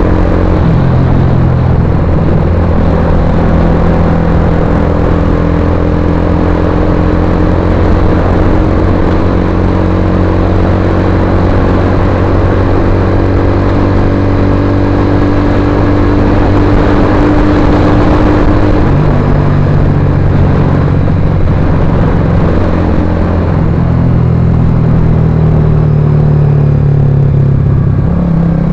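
Suzuki GSX-R150's single-cylinder engine running loud and steady through an aftermarket Akrapovic-style full-carbon exhaust silencer, with the exhaust note shifting a little in pitch about two-thirds of the way through.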